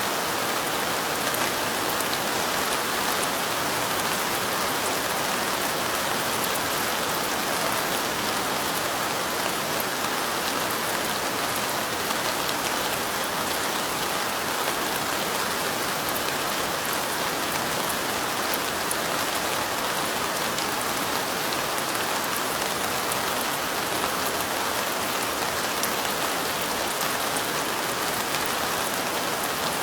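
Steady light rain falling, an even hiss with fine patter of drops on a surface.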